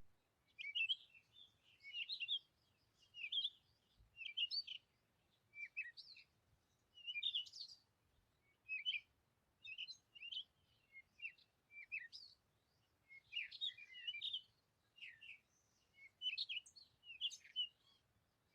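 Birds chirping faintly: many short, high chirps and twittering notes come one after another, about one a second, with near silence between them.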